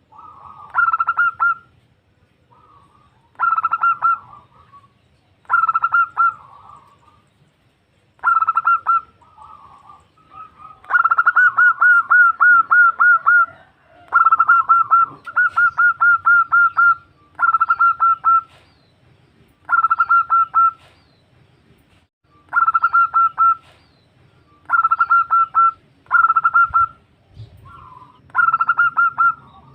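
Female zebra dove (perkutut) calling: short bursts of rapid, clipped cooing notes, repeated every couple of seconds, with a longer run of notes near the middle.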